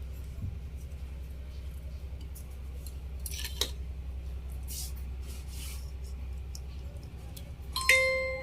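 Small handling noises of bench work on a battery pack: a few short scratchy clicks and snips a little past the middle, over a steady low hum. Near the end comes a brief ringing tone, the loudest sound here.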